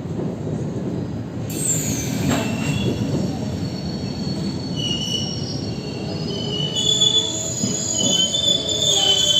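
Rewanchal Express passenger train moving along the platform: a steady rumble of coaches on the rails, with high held wheel squeals coming in about halfway through and growing louder near the end.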